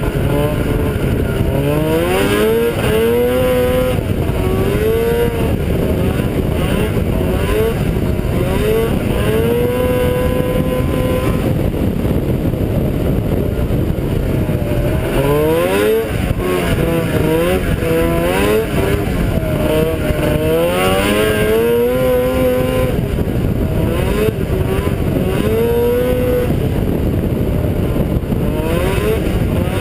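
Ski-Doo Blizzard 7500 snowmobile's two-stroke engine accelerating hard again and again, its pitch climbing quickly and then holding as the freshly serviced drive and driven clutches shift. There are two long runs, with a brief easing off about halfway through.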